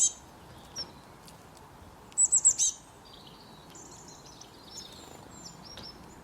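Songbird calling: a loud, quick run of four or five high, down-slurred notes about two seconds in, then softer high twittering through the rest.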